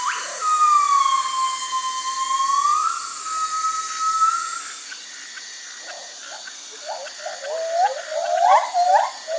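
Gibbon calling: one long whooping note that dips and then levels off. From about six seconds in comes a run of short rising whoops that quicken and grow louder, the build-up of a gibbon great call.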